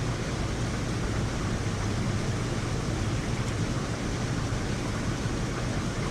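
Heavy rain falling steadily: an even, unbroken hiss with a low rumble beneath it.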